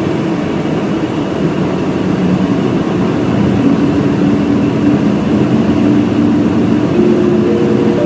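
Route bus engine and road noise heard inside the passenger cabin, the engine's pitch rising in steps as the bus accelerates.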